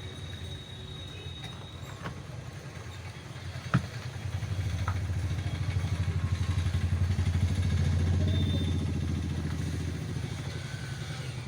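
A motor vehicle engine, likely a motorcycle, passing by: its low, rapidly pulsing sound grows louder from about four seconds in and fades away near the end. A single sharp click sounds just before it swells.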